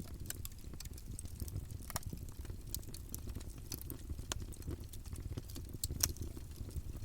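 Campfire burning: a steady low rumble of flames with scattered crackles and pops from the burning wood. One sharper pop comes about six seconds in.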